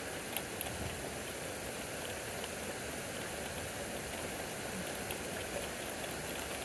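Heavy thunderstorm rain falling steadily, with a few sharp taps of drops striking a nearby surface, two of them close together about half a second in.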